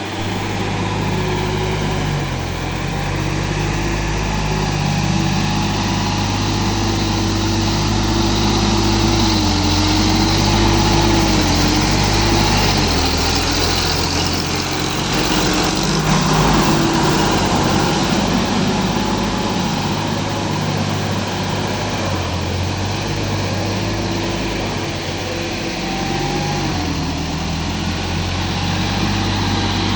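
Sonalika DI 50 Rx tractor's diesel engine running steadily near idle, its pitch wavering a little now and then.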